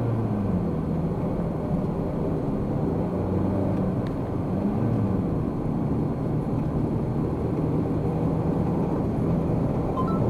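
A car running at road speed: steady engine and tyre noise, with the engine note drifting gently up and down as the speed changes.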